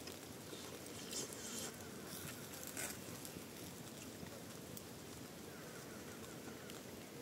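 Insects buzzing and chirping faintly, with a few short clicks or crackles.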